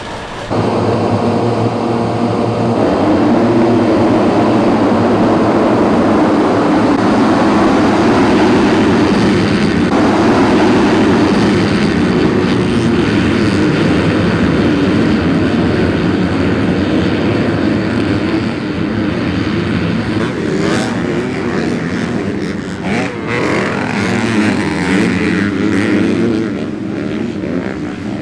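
Motocross dirt bike engines running loud and steady, becoming a little quieter and choppier in the last several seconds.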